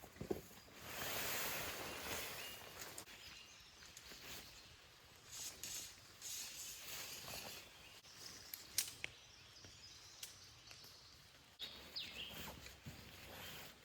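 Faint outdoor ambience with scattered light knocks and rustles, and a short bird chirp near the end.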